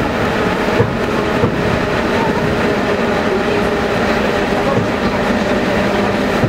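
Electric suburban train heard from inside the carriage while running: a steady rumble of wheels on rail with a constant motor hum, and a couple of wheel knocks about a second in.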